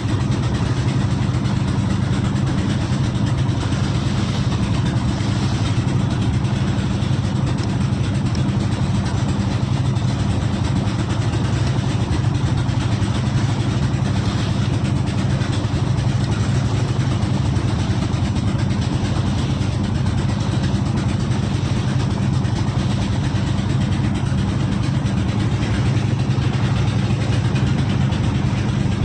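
Small boat engine on a plastic-drum fishing boat running steadily at a constant low speed, a low even drone with no change in pace.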